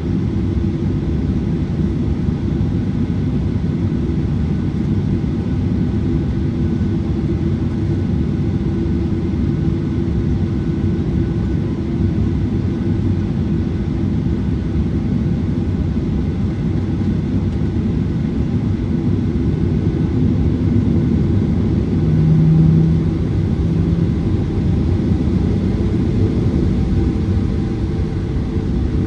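Cabin noise inside a Boeing 737-900ER with its CFM56-7B turbofan engines running: a steady, even rumble with a constant low drone. About three-quarters of the way through, a short, louder low tone rises briefly.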